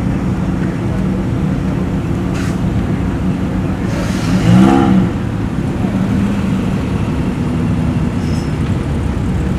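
Car engines running at low revs, with one engine revved once about four seconds in, its pitch rising and falling back within a second.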